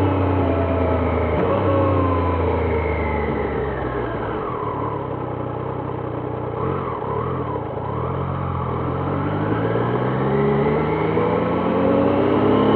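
Triumph Trident 660's three-cylinder engine heard from the rider's seat, its pitch falling as the bike slows, staying low for a couple of seconds, then rising steadily as it accelerates away.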